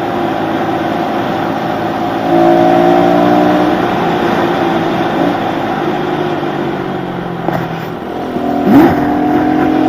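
Pit bike engine running while being ridden. It revs up about two seconds in, eases back, then gives a quick sharp rev near the end and holds at a higher pitch. It is recorded through a waterproof camera case.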